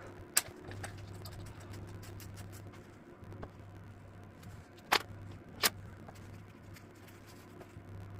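Light clicks and clinks of hand tools and parts being handled during an engine teardown, with three sharper clicks standing out (one near the start, two close together in the middle), over a steady low hum.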